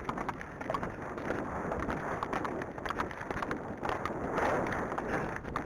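Wind buffeting the microphone in steady rain, a rough, rumbling noise with scattered small clicks.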